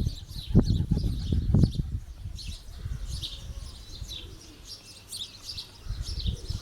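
Many small birds chirping, a dense stream of short high calls, over low wind rumble on the microphone that gusts in the first two seconds with a couple of thumps, then eases.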